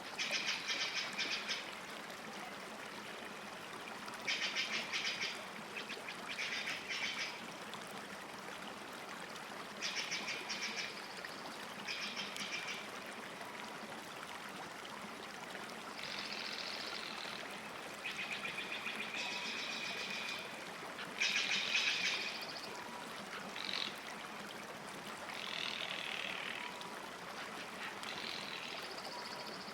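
A songbird singing in short bursts of fast, chattering, varied phrases, repeated every couple of seconds, over a steady hiss of lake water.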